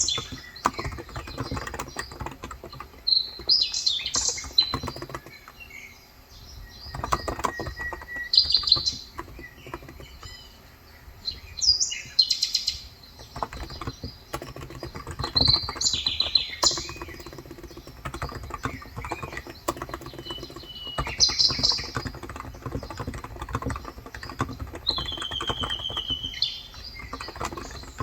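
Typing on a Cox Endeavor electro-capacitive (Topre-style) 35 g tenkeyless keyboard: a steady run of soft key clicks. Birds chirp over it every few seconds, recorded on a phone microphone.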